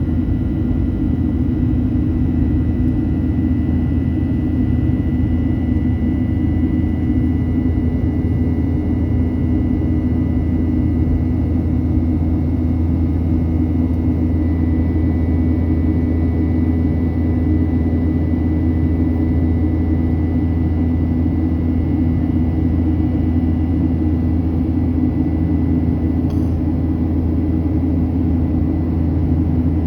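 Steady cabin drone inside a Boeing 737-800 airliner in flight: the CFM56 turbofan engines and the airflow make a constant low rumble, with a few faint steady tones above it.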